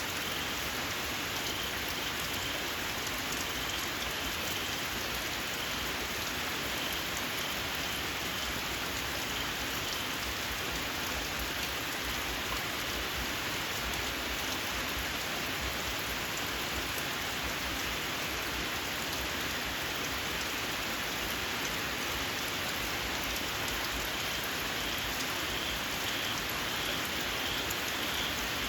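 Steady rain falling, with a small frog (khiat) calling in a run of high, repeated chirps through the first third and again near the end.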